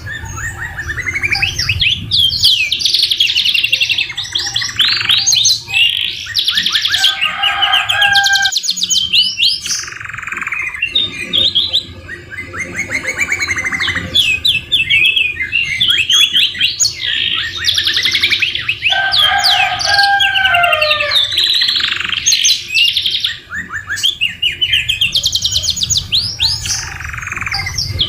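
Domestic canary singing without a break: fast trills and rolling runs of quick repeated notes. The song carries borrowed white-rumped shama phrases, including a few lower whistled notes.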